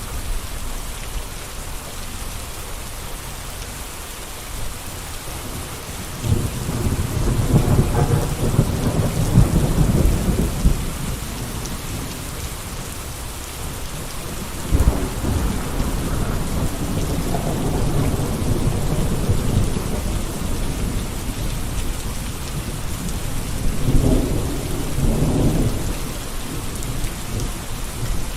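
Steady rain hissing. Three deep rumbling swells rise over it, each lasting a few seconds: about six seconds in, near the middle, and again near the end.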